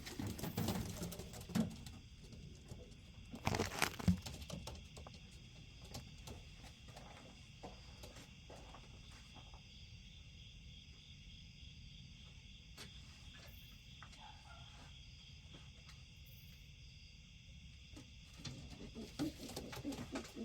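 Homing pigeons scuffling and flapping their wings as they are grabbed off their perches, with a loud flurry about three and a half seconds in. Between the flurries, scattered small knocks sound over a steady high insect chirring.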